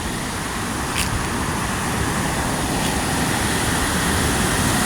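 Water rushing over a dam and falls: a steady roar that grows slightly louder, with a brief click about a second in.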